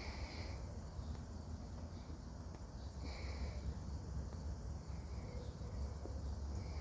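Quiet outdoor background: a low steady rumble, with a short high chirp repeating about every three seconds.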